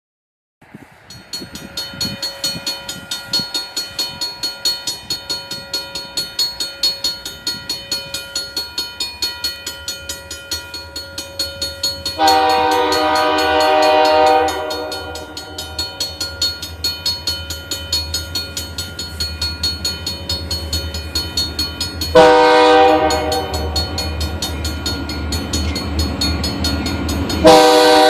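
A moving train with a multi-locomotive diesel consist, its wheels clicking over rail joints about twice a second. The lead locomotive's air horn sounds a long blast about twelve seconds in, another about ten seconds later, and starts again near the end.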